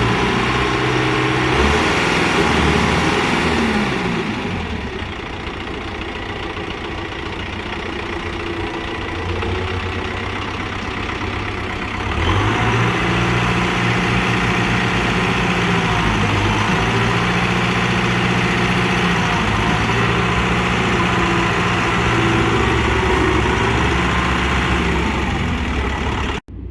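Tractor diesel engine running, its note dropping about 4 s in and picking up again about 12 s in, as if working the throttle to free the stuck tractor. The sound cuts off suddenly near the end.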